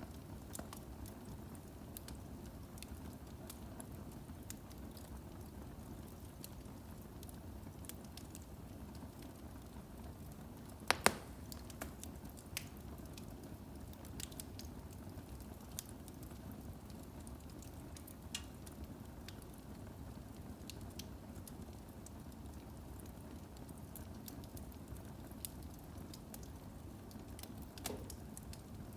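Firewood burning in a fireplace: a steady low rush of flame with scattered crackles and pops from the logs, the loudest pop about eleven seconds in and another near the end.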